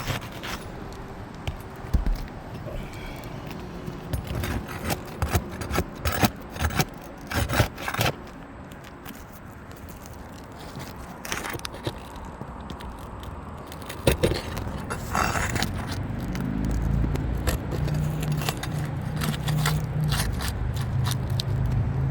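Pry bar scraping and clicking against asphalt shingles and roofing nails as a shingle is worked loose to release its nails, in many short irregular strokes. From about two-thirds of the way in, a low steady hum rises underneath.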